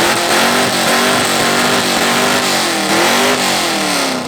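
A car or truck engine revved hard through a loud performance exhaust, held near high revs with a brief dip about three seconds in before climbing again. It is really loud.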